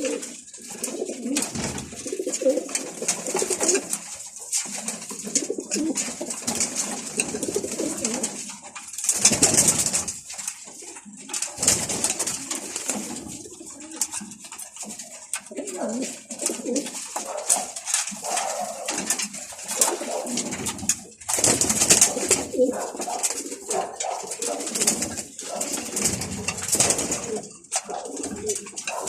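Domestic pigeons cooing continuously, several birds at once, with a few short, louder bursts of rustling noise.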